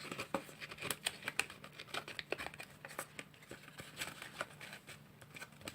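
Irregular small clicks, taps and rustles of paper and cardboard craft parts being handled and pressed into place while gluing.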